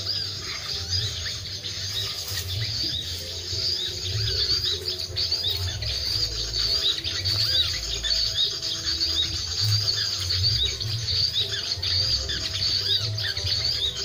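Small birds chirping in quick, repeated arching notes, several a second, with wind rumbling on the microphone.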